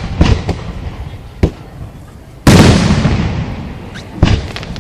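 Aerial fireworks bursting: a few sharp bangs, then a much louder burst about halfway through that trails off slowly over more than a second, and one more bang near the end.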